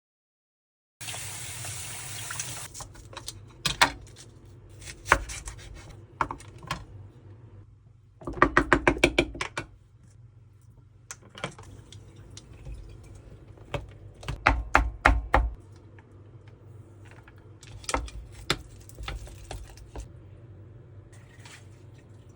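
Kitchen preparation sounds: a tap runs briefly near the start, then a series of knocks and clatters of utensils, with two quick runs of rapid taps partway through.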